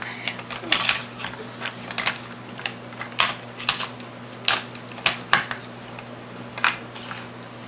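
Hard plastic toy pieces clicking and clacking as they are handled: a toy figure and cage on a toy Jeep. Sharp, irregular clicks, about a dozen.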